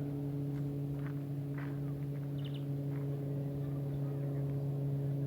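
A steady low hum at one constant pitch, with overtones, and a few faint short high chirps over it.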